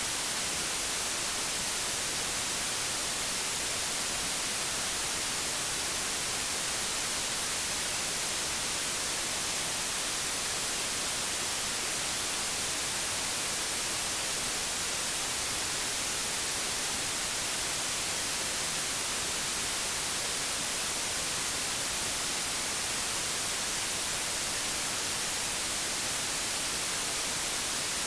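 Analog television static: a steady, even hiss, brightest in the treble, with no change throughout.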